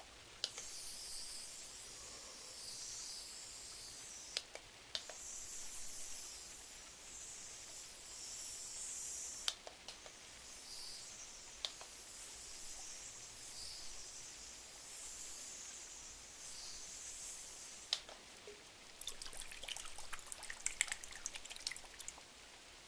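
Soft rain pattering on window glass as a steady, wavering hiss, with scattered sharp pops from a wood-burning fireplace crackling. Near the end comes a quick flurry of small crackling clicks.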